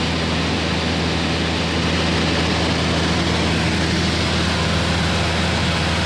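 Steady drone of an airplane in flight heard from inside the cabin: an even engine hum under a wide rushing hiss, with no change in pitch or level.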